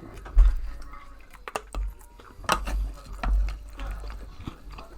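Scattered clinks and knocks of dishes and eating utensils, with several dull low thumps.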